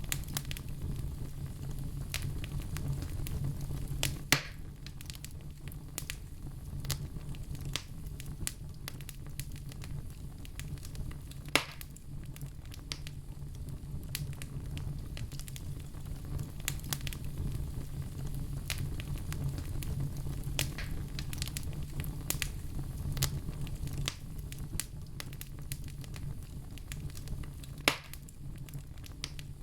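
Wood fire crackling, with irregular sharp snaps and three louder pops, over a steady low rumble.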